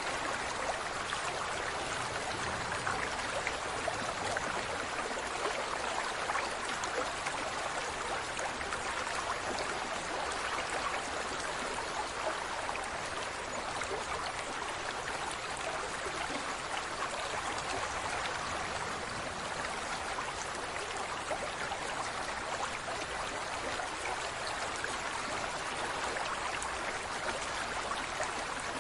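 Steady rushing noise of running water, even throughout, with no animal calls standing out.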